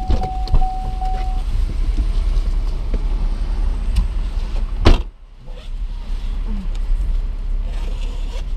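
Car engine idling, heard from inside the cabin as a steady low rumble. A single steady tone sounds for about the first second and a half, and there is a sharp click about five seconds in.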